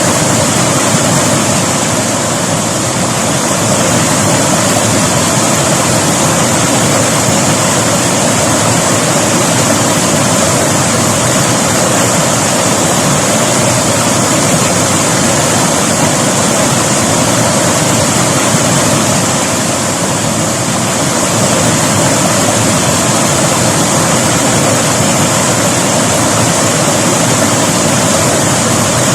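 River water flowing over rocks: a loud, steady rushing.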